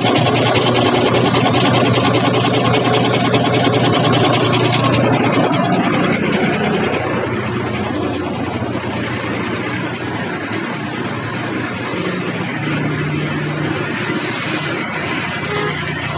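Tata 5310 truck's diesel engine running, higher for the first five seconds or so, then settling to a steady, lower idle.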